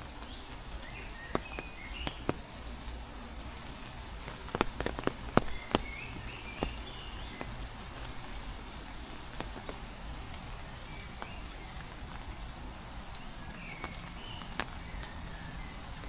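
Heavy rain falling steadily, with sharp close drop impacts scattered through it, most of them in a cluster about five seconds in.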